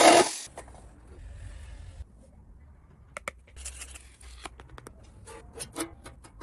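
A loud, noisy tool sound cuts off just after the start, then small metal parts are handled: scattered light clicks, clinks and scrapes.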